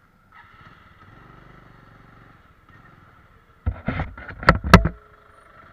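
Motorcycle engine running low as the rider moves off. About four seconds in, several loud, irregular bursts of rumbling noise hit the helmet camera's microphone.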